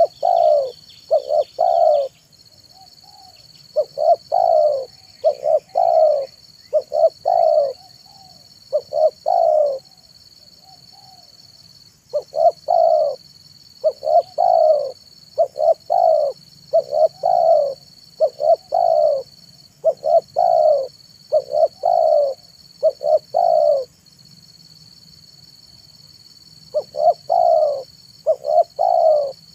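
Spotted dove cooing over and over: series of short, rounded coos, with a pause of a couple of seconds twice before it starts again.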